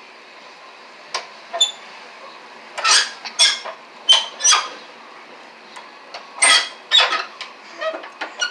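A dog rattling and banging something metal: an irregular run of sharp metallic clanks, each with a short ring, coming in clusters.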